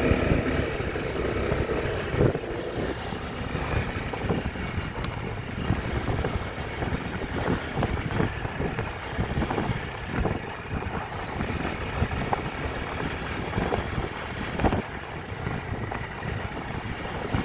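Riding a motorbike: wind buffeting the microphone over engine and road noise, rising and falling unevenly.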